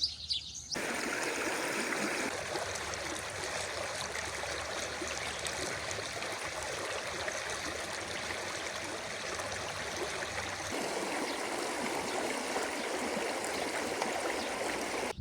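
Running stream water: a steady, even rushing that starts abruptly about a second in and changes slightly in tone about two-thirds of the way through.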